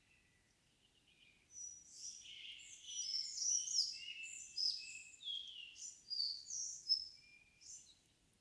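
A songbird singing one long, rapid phrase of varied high warbling notes. It starts about a second and a half in and stops near the end, with fainter thin bird notes before it.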